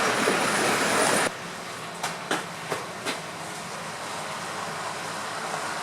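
Train running through a station: a loud rushing of wheels and air that drops off abruptly about a second in, then quieter running with four sharp clacks of wheels over rail joints.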